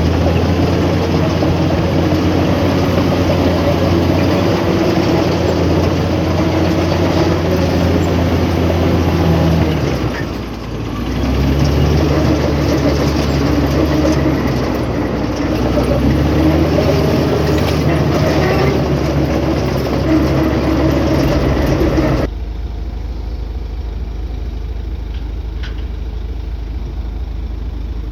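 Heavy diesel engine of earthmoving machinery running steadily, dipping briefly about a third of the way in and then picking up again. Near the end the sound switches abruptly to a duller, quieter engine hum.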